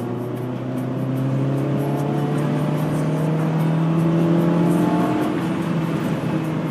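2003 Mitsubishi Lancer's engine revving up slowly and steadily for about four and a half seconds, then easing off a little.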